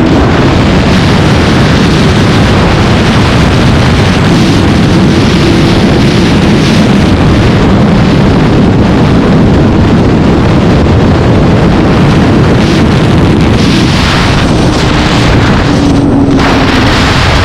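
Heavy wind buffeting the microphone at road speed, with a vehicle engine's steady hum underneath.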